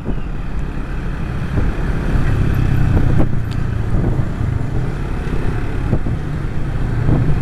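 Yamaha New Vixion Lightning's 150 cc single-cylinder engine running steadily while riding, with wind rushing over the microphone.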